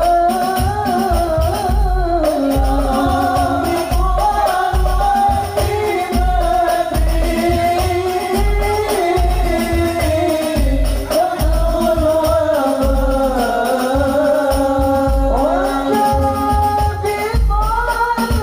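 A high, piercing solo voice singing a sholawat devotional song in long, ornamented held notes, over percussion with low drum beats about once a second.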